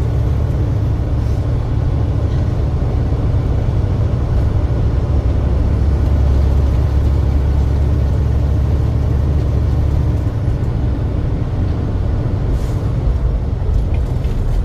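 Heavy truck running on the road, a steady low rumble of engine and road noise.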